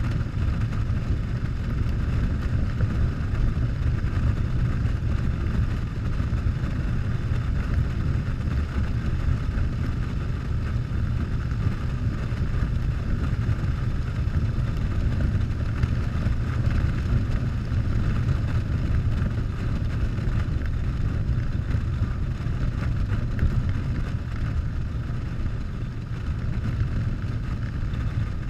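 Harley-Davidson Softail's V-twin engine running steadily under way, with wind rushing over the microphone.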